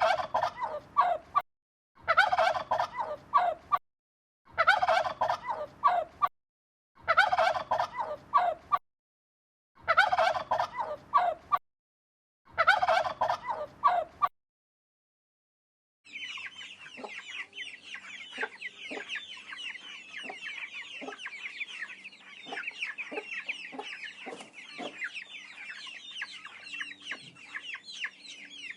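Bird calls: six near-identical bursts of about a second and a half each, spaced by short silences, then after a pause of a second or so a dense, steady chorus of many high chirps with scattered lower clucks.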